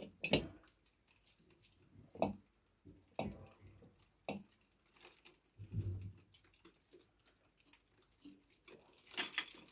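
Animals scuffling: scattered irregular taps, scratches and clicks, with a soft heavier thump about six seconds in and a cluster of sharper clicks near the end.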